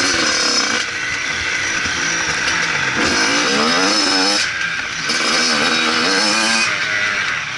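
Motocross bike engine revving hard and rising in pitch, then dropping off sharply a few times as the throttle is shut and opened again. A steady rushing noise runs underneath.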